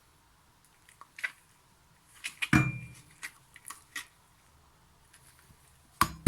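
Scattered light clicks and clatters of hard objects being handled, with a heavier knock about two and a half seconds in and another sharp knock at the end.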